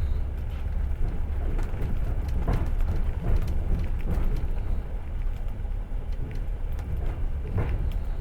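Passenger train running along the track: a steady low rumble of wheels on rails, with scattered clicks and knocks from the wheels.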